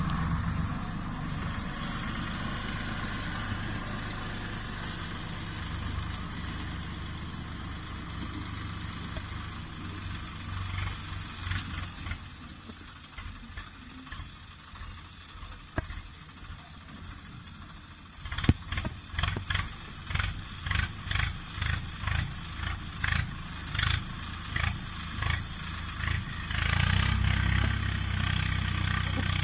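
Tractor engine running with a steady low rumble. Past the middle comes a run of regular sharp knocks, about one and a half a second, and the rumble grows louder near the end.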